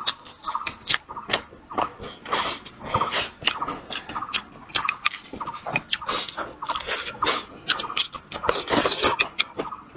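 A person chewing a mouthful of food close to a clip-on microphone, with a quick, irregular run of wet mouth smacks and clicks.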